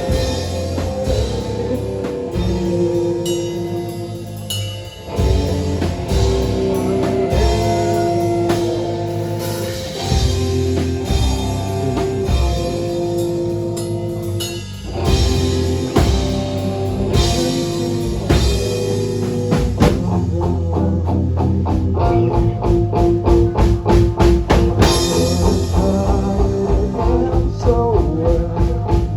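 Rock band playing an instrumental passage with electric guitar and drum kit. From about twenty seconds in, the drums play a fast, even beat.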